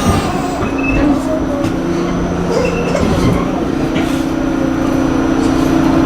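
New York City subway train running, with a rumble and a steady low hum that sets in about a second in.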